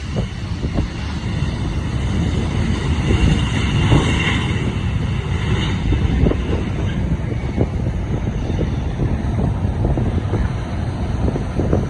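Boeing 727's Pratt & Whitney JT8D jet engines rumbling loudly with crackle as the airliner lands, with wind buffeting the microphone. A high engine whine fades out in the first few seconds.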